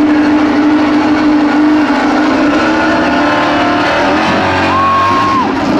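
Honda RC213V MotoGP race bike's V4 engine running at a steady high idle, then revved once about five seconds in: the pitch climbs sharply, holds for a moment and drops back.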